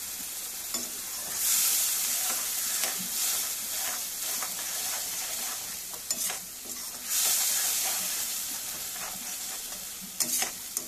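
Tomato and onion paste sizzling in hot mustard oil in a kadai, stirred with a perforated metal spatula that knocks and scrapes against the pan now and then. The sizzle swells up twice as the paste is turned over.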